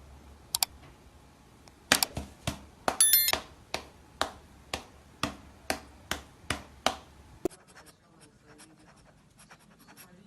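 Sharp taps about two a second, with a brief ringing tone about three seconds in. They stop suddenly after about seven seconds, and faint light scratching and ticking follows.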